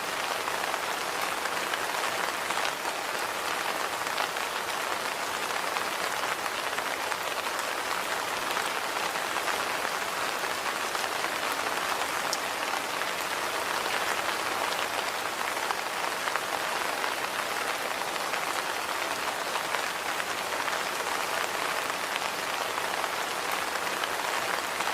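Steady rain falling on a surface, an even hiss with many small drop ticks and no change in strength.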